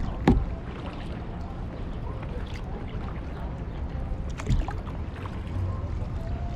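Kayak on the water: paddle and water sounds with small splashes and drips. Two sharp knocks come through, one right at the start and one about four seconds later.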